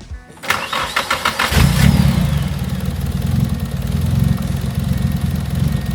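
Nissan SR20DET turbocharged four-cylinder cranking on the starter for about a second, then catching with a short falling whine and settling into a steady idle.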